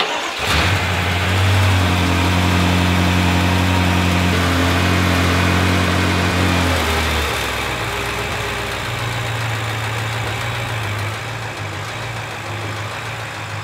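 Rebuilt BMW F10 M5 S63 twin-turbo V8 started up, catching about half a second in and running at a fast idle; after about seven seconds the idle drops and it settles into a lower, quieter steady idle.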